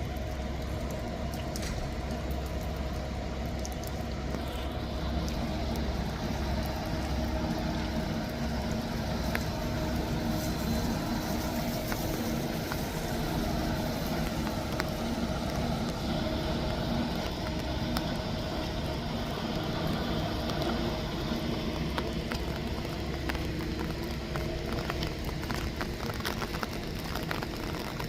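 City street traffic: a motor vehicle running close by, a steady low engine hum with a held tone, over a background of road noise.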